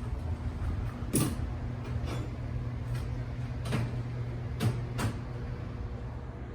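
A steady low hum with a series of short, sharp knocks and clicks, about six of them, irregularly spaced.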